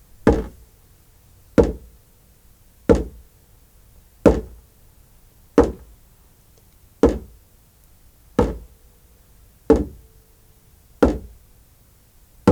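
A hand drum beaten in a slow, steady rhythm, about one strike every 1.3 seconds. Each hit gives a deep boom with a short ring.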